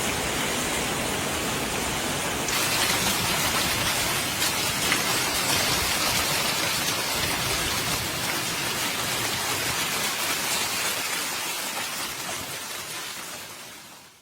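Storm precipitation, rain and hail, pelting down in a steady hiss with faint scattered impacts. The sound shifts suddenly about two and a half seconds in, then fades out near the end.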